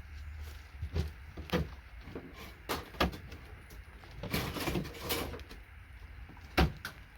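Sharp knocks and clicks of hand tools prying components off scrap circuit boards, with a longer scraping rattle about four seconds in.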